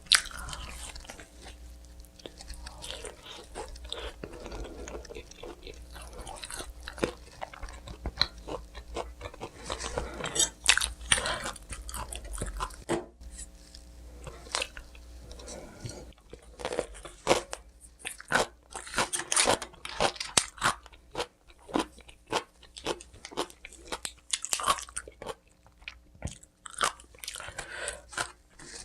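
Close-miked eating sounds: repeated crunchy bites and chewing of crisp food, irregular and ongoing, busiest in the second half.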